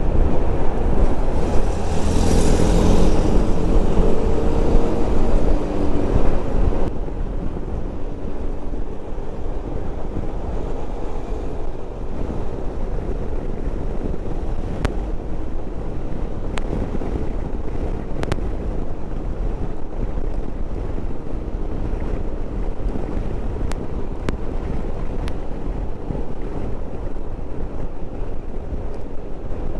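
Wind rushing and riding noise picked up by a microphone inside a motorcycle helmet on the move. It is louder for the first several seconds, then drops to a steadier, lower rush about seven seconds in. A few sharp clicks come from the helmet mic setup.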